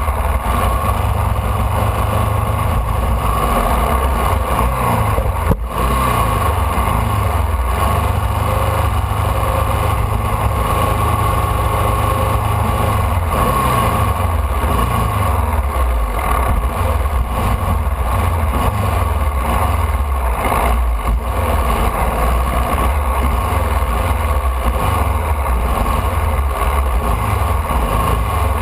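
Formula Vee's air-cooled Volkswagen flat-four engine running hard, recorded from on board the car, its pitch falling and rising again several times as the revs change.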